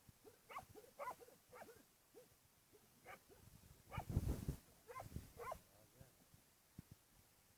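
A dog, likely a puppy, giving about eight short high whimpering yips that rise and fall in pitch, with a louder low noise about four seconds in.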